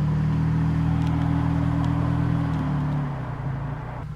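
Car engine running with a steady low hum; about three seconds in its pitch drops and it gets quieter.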